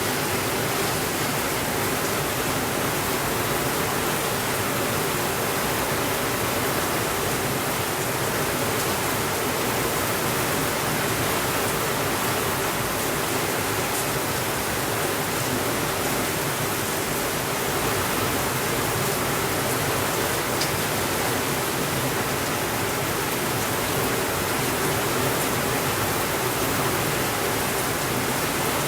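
Steady rainfall, a constant even hiss with no thunder.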